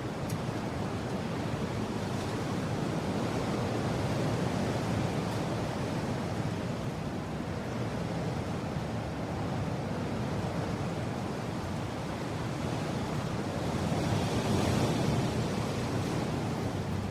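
Mountain wind blowing steadily, with a swelling gust about four seconds in and a stronger one near the end.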